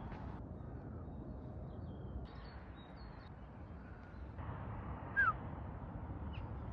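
Faint bird chirps over a steady low outdoor rumble, with one short, sharper downward-gliding chirp about five seconds in.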